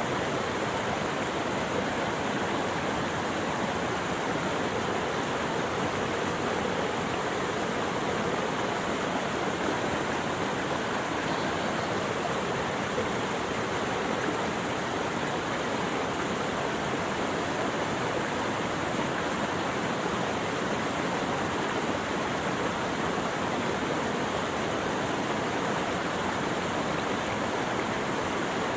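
Flowing water rushing steadily, an even, unbroken sound with no rise or fall.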